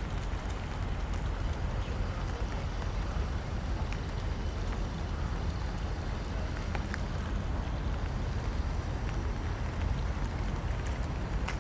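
Steady low outdoor rumble with faint, scattered light ticks over it.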